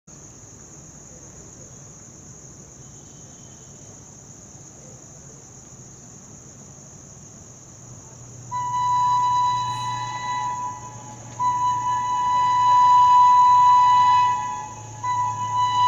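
Indian Railways locomotive horn sounding three long blasts from about halfway in, the longest in the middle, as a train approaches with a low rumble. Insects keep up a steady high-pitched drone throughout.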